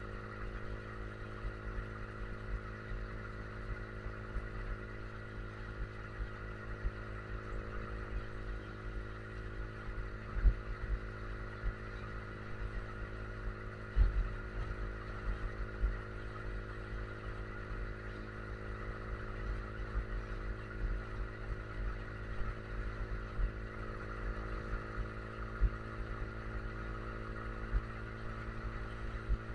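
Yamaha R15 V3's 155 cc single-cylinder engine running at a steady cruise at about 65 to 70 km/h, with wind rumbling on the microphone. Two sharp thumps come about ten and fourteen seconds in.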